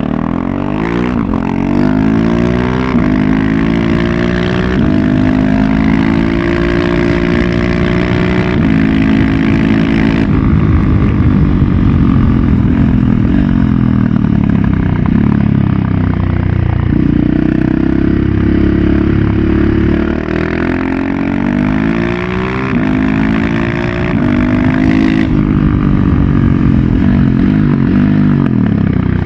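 KTM 690 SMC-R's single-cylinder engine, loud through a Leo Vince Evo One full exhaust, accelerating up through several gears, the pitch climbing and dropping back at each shift. Around the middle the revs fall away as it slows, hold steady for a few seconds, then climb through the gears again before falling off near the end.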